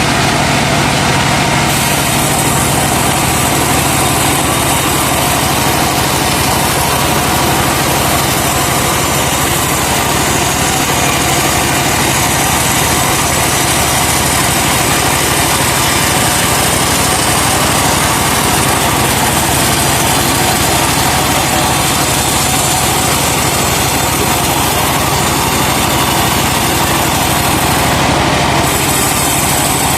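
Truck-mounted sawmill running steadily, the truck's engine driving the saw, with a slight shift in its higher tones about two seconds in and again near the end.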